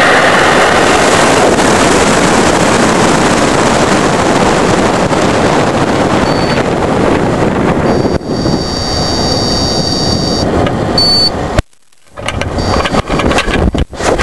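High power rocket's K-class solid motor firing at liftoff: a loud, steady rushing roar that slowly fades over about ten seconds, with a thin high steady tone for a couple of seconds partway through. Near the end the roar drops out abruptly and choppy gusts of wind on the microphone follow.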